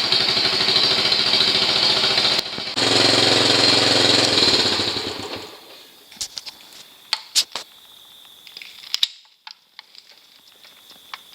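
Honda CT110 single-cylinder four-stroke engine running at a slow idle, its carburettor freshly leaned and idle speed turned down; it breaks off briefly at about two and a half seconds, then dies away about five seconds in, leaving a few faint clicks and knocks.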